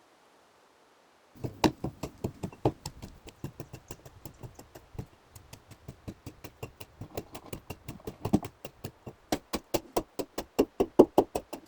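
A rapid, uneven series of sharp knocks, about four to six a second, starts a little over a second in and keeps going, with some strikes much louder than others, the loudest near the end.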